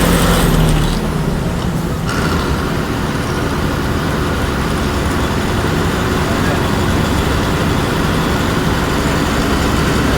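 Ashok Leyland bus engine running, its loud pitched drone dropping away about a second in. A steady low rumble of engine and road noise follows.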